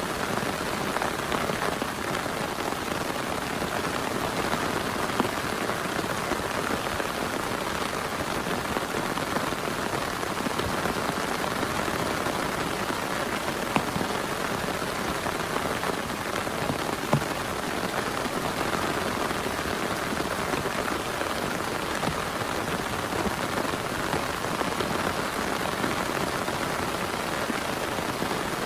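Heavy rain falling steadily, with a few sharper single drop hits standing out now and then.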